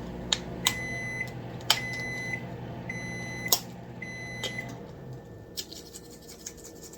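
Kitchen appliance's electronic beeper sounding four evenly spaced high beeps, about one a second, over a steady low hum that stops about five seconds in. A few light clicks come in between.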